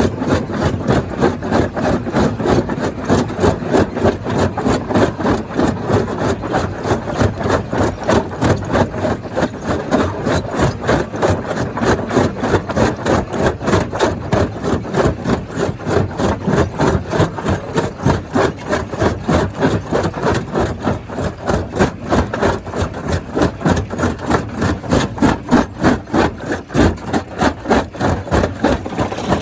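Stone crusher machinery running under load, a loud, continuous mechanical clatter with an even pulsing of about three beats a second.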